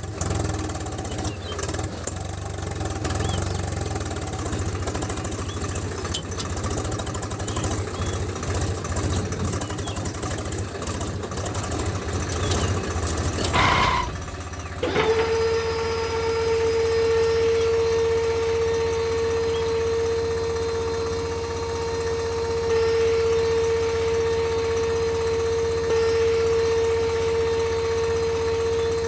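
Small electric motor running: a rattling, clicking whir for about half the time. Then, after a brief break, a steady, even whine holding one pitch.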